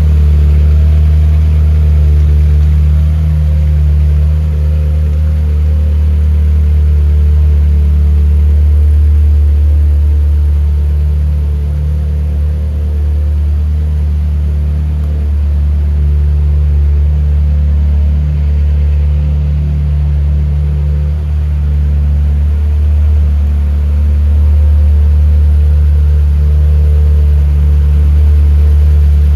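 Ferrari F355's 3.5-litre DOHC mid-mounted V8 idling steadily.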